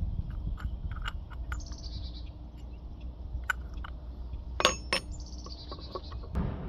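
A songbird singing a falling trill of quickly repeated high notes, twice, over a steady low hum. Small sharp metal clicks and clinks of carburetor parts being handled come in between, the loudest a little over halfway through.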